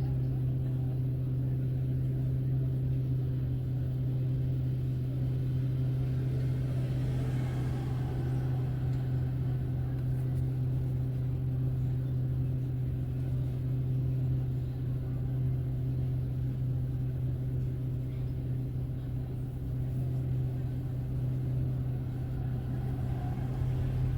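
Car driving along, heard from inside: a steady low engine and road hum with a low rumble, unchanging throughout, with a faint brief rise of higher noise about seven seconds in.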